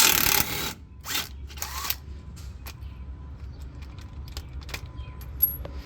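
Hand tool working the shock absorber's lower mounting bolts: a short scraping rasp at the start, two briefer scrapes, then scattered light metallic clicks and ticks.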